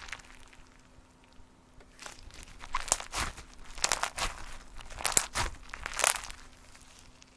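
Slime being squeezed and poked by hand: a run of short squishes and crackles, a few each second, starting about two seconds in.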